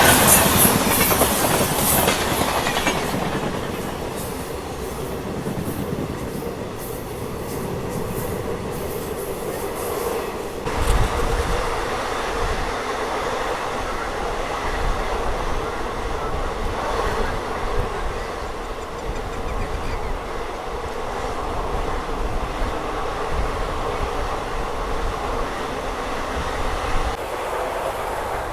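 A passenger train running on rails, with wheels clattering over the track and a steady rumble. It starts suddenly loud and hissy, and the hiss eases over the first few seconds. A deeper rumble sets in about eleven seconds in.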